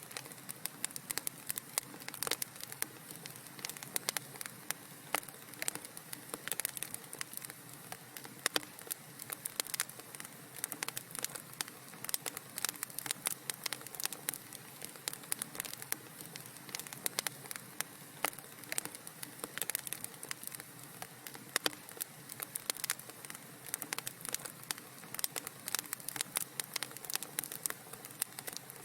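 Fire crackling in a fireplace: many small irregular snaps and pops over a soft steady hiss.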